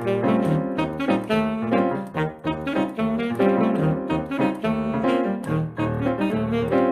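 Live Brazilian jazz ensemble playing: a tenor-range melody line over piano chords and a walking bass, with quick changing notes.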